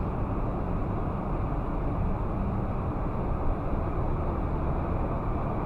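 Steady road and engine noise of a car driving, heard from inside the cabin through a dashcam, with no impacts or horn.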